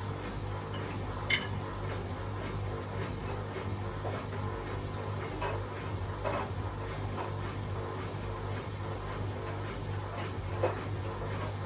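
Two Hotpoint WMA37 and WMA48 washing machines running their fast spin programmes with a steady motor hum. A few sharp clinks or knocks sound over it, the loudest about a second in and near the end.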